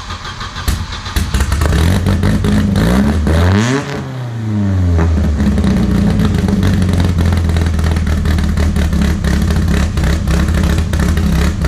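Volvo 740's naturally aspirated B230F four-cylinder, built with a high-compression 531 head and bigger cam, starting up and running loud. It is blipped once, the pitch rising and falling about three to four seconds in, then settles into a steady idle.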